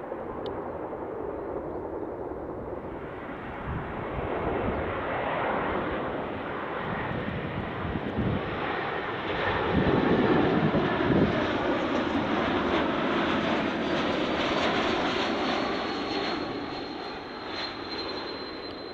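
Jet airliner on short final approach passing low overhead: the engine rush builds to its loudest about halfway through and then fades, with a steady high whine from the engines after it passes.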